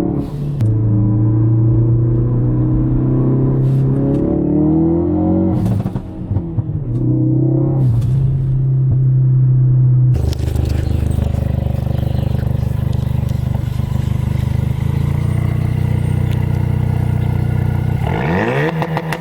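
2016 Ford Focus RS's turbocharged 2.3-litre four-cylinder running loud through a muffler-delete exhaust, held at steady revs with several quick blips in pitch. About ten seconds in the sound changes abruptly and the engine runs steadily again, with a rev rising and falling near the end.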